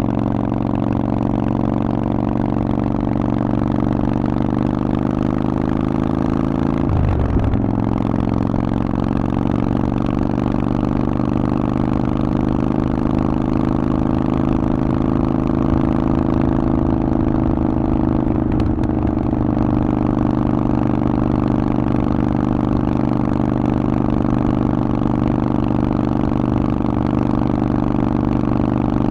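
Harley-Davidson Forty-Eight's air-cooled V-twin running through a Vance & Hines aftermarket exhaust while riding at a fairly steady pace. The engine note holds mostly steady, drifting slowly in pitch, and breaks and dips briefly twice, about seven seconds in and around eighteen seconds.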